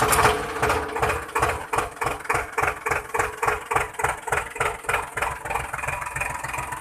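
Small motor-driven mechanism running with a steady hum and a regular clatter of about four beats a second, slowly fading.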